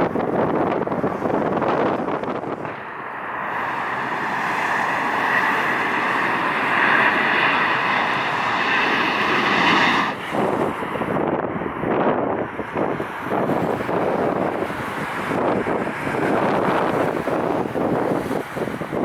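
Strong gusty wind buffeting an unshielded microphone. An aircraft's engine sound rises over it from about three seconds in and cuts off abruptly about ten seconds in, leaving only the wind noise.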